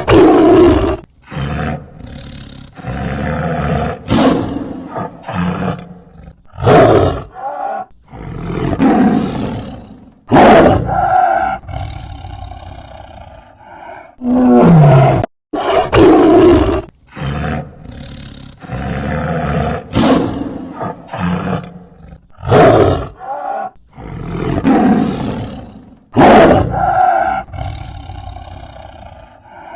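A tiger roaring repeatedly: loud roars about a second long, with quieter growling between them. The same run of roars seems to repeat about halfway through.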